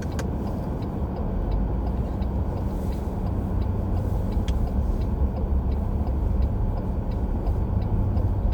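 Steady low rumble of a car driving, heard inside the cabin, with faint regular ticking about three times a second.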